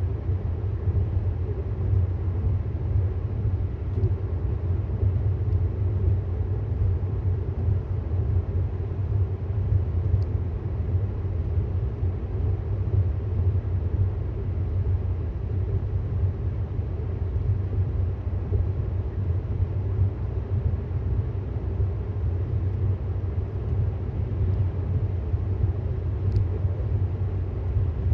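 Steady low road and tyre rumble of a 2018 Tesla Model S 75D cruising; as an electric car it has no engine note, so the sound is rolling noise that stays even throughout.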